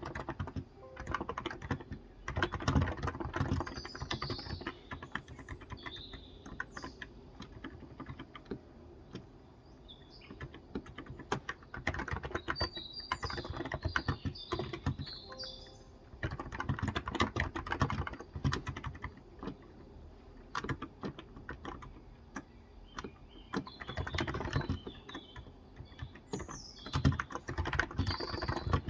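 Typing on a Cox Endeavour electrostatic capacitive tenkeyless keyboard with 35 g keys, in quick bursts of key clicks broken by short pauses. Birds chirp in the background several times.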